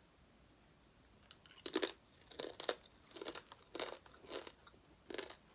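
Crisp plantain chips being bitten and chewed: a run of about seven sharp crunches, starting a little under two seconds in.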